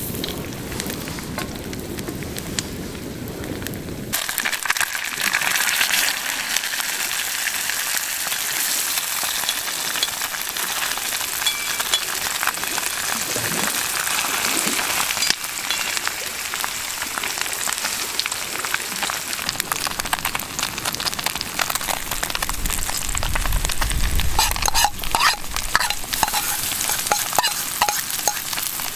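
Tofu searing in hot oil in an iron pan: a dense, steady sizzle with crackles and spatters. It comes up loud about four seconds in, after a lower rumble of wind, and there are a few low knocks past the twenty-second mark.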